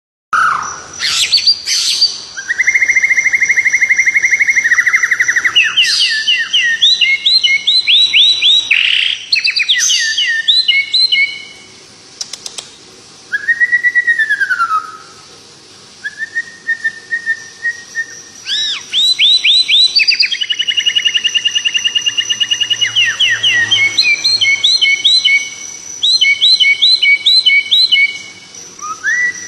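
A songbird in full song, loud and nearly continuous, in long varied phrases of fast buzzing trills and rapid strings of rising notes. A slurred falling whistle comes in a short pause about halfway through.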